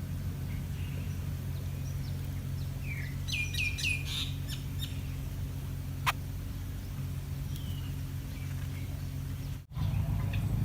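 Wild birds chirping: a quick run of four or five short, falling calls about three seconds in, over a steady low outdoor rumble, with one sharp click about six seconds in.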